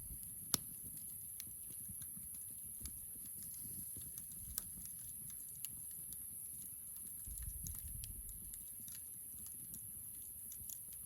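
Wood campfire crackling faintly, with irregular sharp pops and snaps, one louder pop about half a second in. A soft low rumble comes in around the middle.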